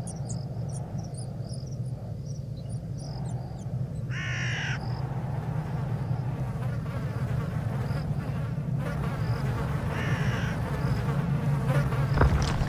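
Eerie cemetery ambience sound effect: a low steady drone under rows of short, high chirps, with a crow cawing about four seconds in and again about ten seconds in.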